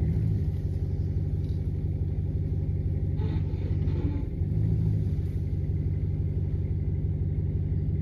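A vehicle engine running steadily, straining to pull a fallen tree that is still attached at its stump; the engine note swells briefly about five seconds in.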